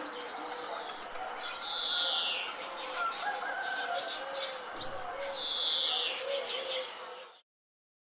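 Several songbirds chirping and calling, with two clear, falling whistles about two and five seconds in. The sound cuts off suddenly just before the end.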